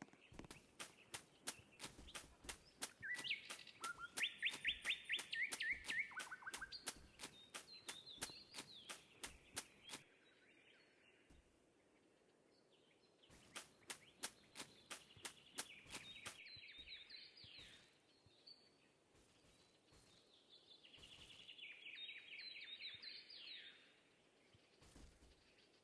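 A bird singing three trilling phrases of fast repeated notes, with a rapid regular clicking, about four clicks a second, under the first phrase and again around the middle.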